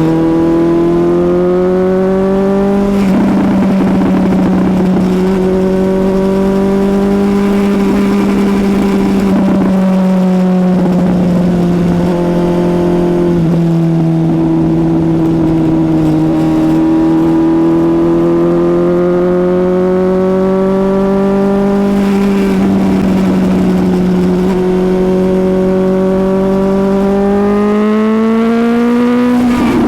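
Suzuki GSX-S750's inline-four engine running hard under way, its note climbing and dipping with the throttle several times, with a sharp change in pitch about 3 seconds in and again near the end.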